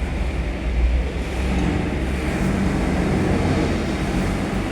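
Diesel engine of a Hitachi EX200-5 hydraulic excavator running steadily.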